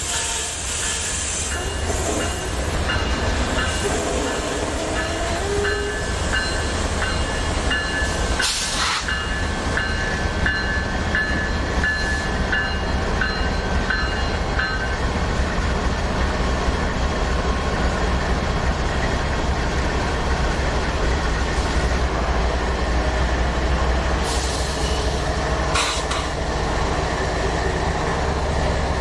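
Freight cars of a long train rolling past on steel rails: a steady heavy rumble and wheel clatter, with a thin high-pitched wheel squeal from about two to fifteen seconds in and a couple of sharp clanks. Near the end the rear locomotive draws alongside.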